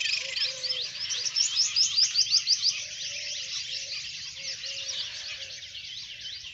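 Morning birdsong: a rapid string of high, upward-sweeping chirps, loudest in the first few seconds and then fainter, with a lower short call repeating faintly beneath.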